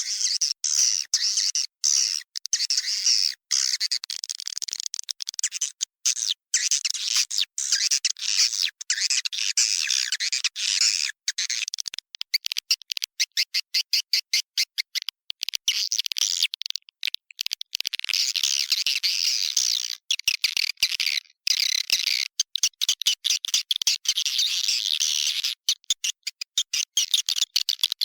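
A swiftlet lure call: the dense, high-pitched chirping and twittering of many swiftlets in a nesting house, broken by frequent brief dropouts. It is a recording played to draw swiftlets into a nest house.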